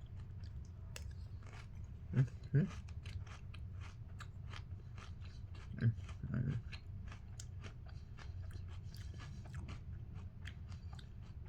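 Person chewing a mouthful of crunchy Cinnamon Pebbles rice cereal in milk: a steady run of small, crisp crunches. There are a few short, low hums about two and six seconds in.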